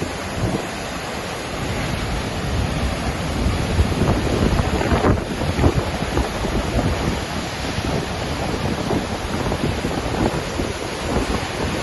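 Waterfall in Iceland, a steady rush of falling water, with wind gusting on the microphone in uneven low surges.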